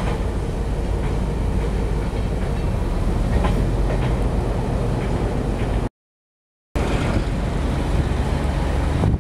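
Moving passenger train heard from its window: a steady rumble of wheels on rails with a few faint clacks. About six seconds in the sound cuts out completely for under a second, then the rumble resumes.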